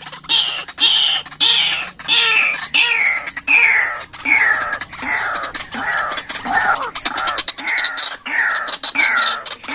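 White-breasted waterhen calling: a harsh note repeated about twice a second, each one falling in pitch.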